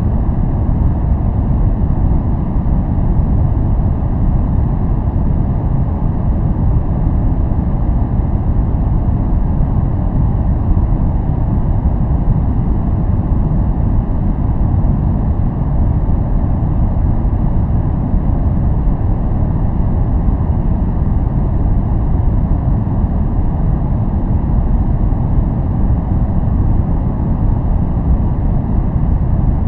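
Steady, unchanging noise track sold as white noise for focus. It sounds like a deep, even rush, heavy in the bass with little hiss on top.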